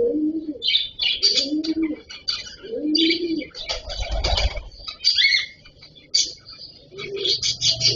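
Cockatiels chirping rapidly, mixed with repeated low cooing from doves or pigeons. About four seconds in there is a short burst of flapping wings.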